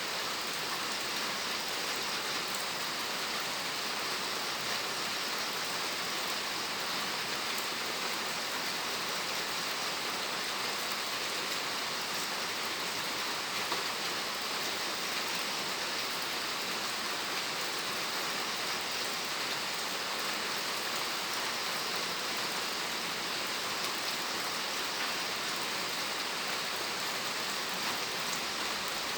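Steady rain falling, with fine patter of drops on surfaces.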